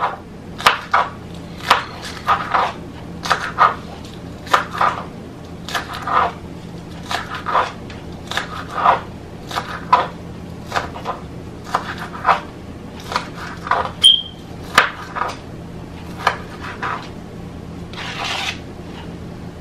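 Knife chopping vegetables on a cutting board: a run of sharp, irregular knocks, about one or two a second.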